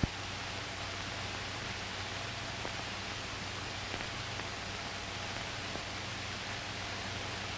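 Steady hiss with a low hum and a few faint clicks: the background noise of an old film soundtrack.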